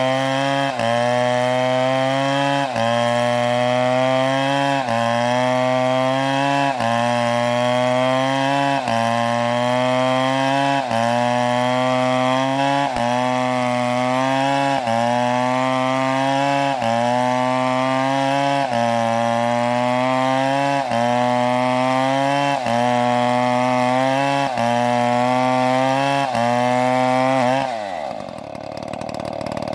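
Chainsaw running at high revs while cutting wood, its pitch dipping briefly and recovering about every two seconds as it loads in the cut. Near the end the engine drops sharply down toward idle.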